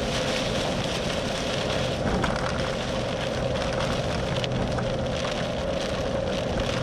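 Chase vehicle driving, heard from inside the cabin: a steady engine and road hum with a low drone and a higher whine, and scattered light ticks of rain on the body.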